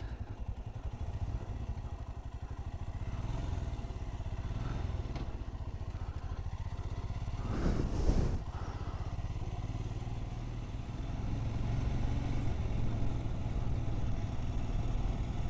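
Motorcycle engine running steadily while being ridden, picked up from the rider's own bike. There is a brief louder rush about eight seconds in.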